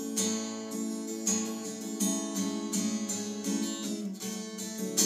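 Acoustic guitar strumming chords in an instrumental gap between sung lines of a worship song, with a strum roughly every half second to second.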